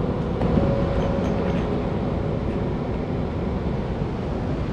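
Steady low rumbling noise with no breaks, heaviest in the low end, of the kind left by surf or wind on an open beach.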